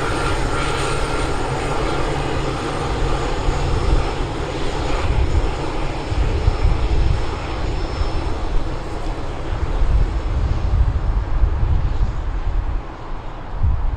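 Airbus A321neo jet engines running, a steady rush with a heavy, uneven low rumble, the higher part of the sound dying away over the last few seconds.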